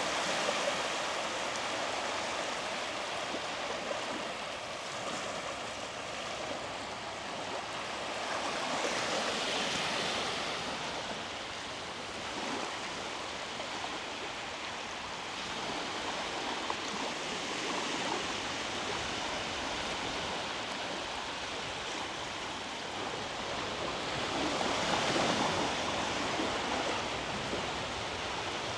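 Small waves breaking on a sandy shore: a steady wash of surf that swells three times, at the start, about a third of the way in and near the end.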